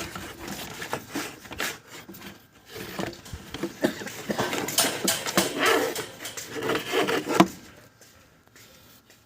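Engine-accessory pulley bearing spun by hand with the drive belt off, giving an irregular rattling and scraping full of small clicks that stops about seven and a half seconds in. The rough, rattly running is the sign of a worn bearing.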